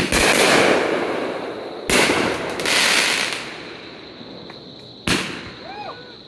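Aerial fireworks shells bursting overhead: three sharp bangs about two to three seconds apart, each followed by crackling that fades over a second or two.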